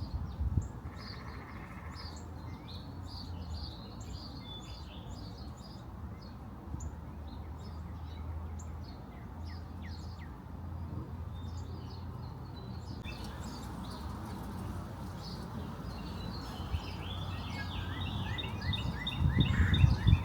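Small birds chirping and calling, with a rapid trilled song of repeated notes starting near the end, over a steady low hum.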